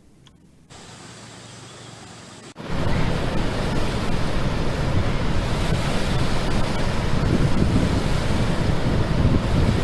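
Flood water rushing from the open spillway gates of a dam in a loud, steady rush. It starts abruptly about two and a half seconds in, after a fainter hiss.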